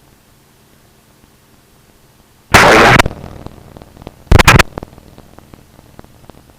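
Aircraft radio static: two short, very loud bursts of squelch noise over a faint background hiss. The first is about half a second long, about two and a half seconds in. The second is shorter and choppy, about four and a half seconds in.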